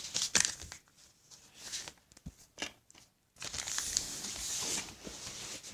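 Sheet of paper being handled and folded: irregular rustling and crinkling with a few sharp creasing clicks, heaviest in the first second and again in the second half.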